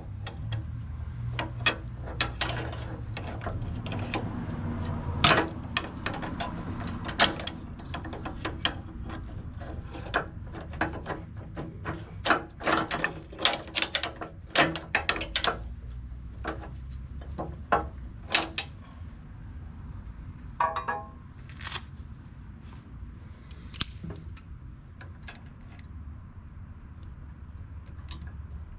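Irregular metal clanks and knocks of prying at a skid steer's Quick-Tach latch, whose right side is jammed and won't release, over a steady low rumble.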